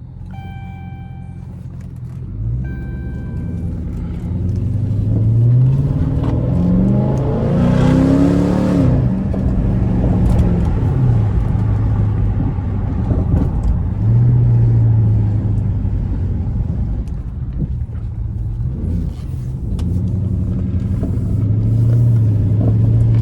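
Straight-piped Chrysler 300S 5.7-litre (345) Hemi V8 exhaust pulling away under hard acceleration: the revs climb for several seconds, then drop off around the 9-second mark. The engine then runs at cruise, with two more pulls later on. A few short electronic chime tones sound at the start.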